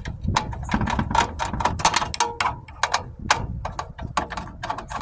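Hand tools clicking and clanking on the sheet-metal housing of a scrap furnace, with irregular sharp metal knocks several times a second, while the transformer is worked loose.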